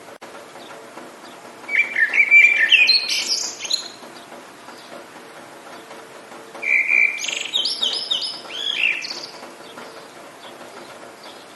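A songbird sings two phrases of chirping, sweeping notes, each about two seconds long, starting about two seconds in and again about seven seconds in. Under it runs a steady hiss of rain.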